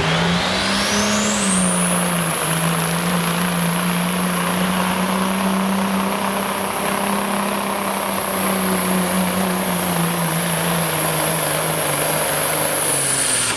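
Limited Pro Stock semi truck's diesel engine running hard under full load on a pull, its turbocharger whine climbing steeply over the first two seconds and then held high and steady. Near the end the engine note and the whine begin to drop as the run ends.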